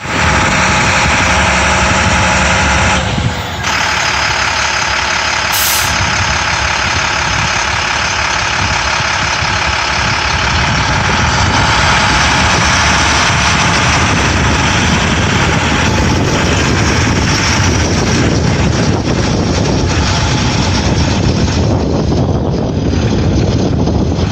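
International 4300 Durastar medium-duty diesel truck's engine running steadily, with a brief drop in level about three seconds in.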